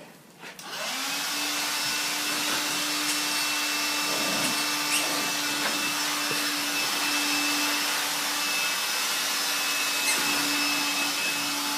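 Vacuum cleaner switching on about half a second in, its motor spinning up and then running steadily with a constant hum.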